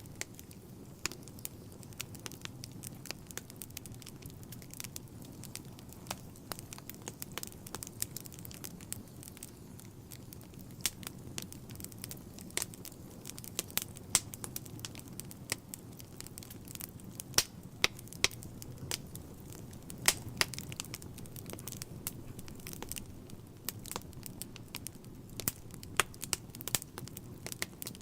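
Wood fire burning in a fireplace: a steady low rumble of flames with frequent irregular crackles and sharp pops of burning logs.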